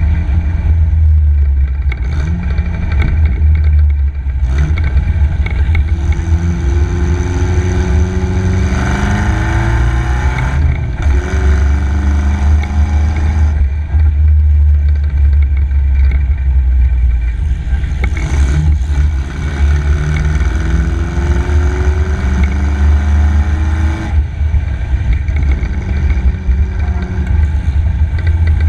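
MG KY Special's engine under hard acceleration, its pitch sweeping upward several times, with short breaks between sweeps about a third of the way in and again past the middle, over a steady heavy wind rush on the open car.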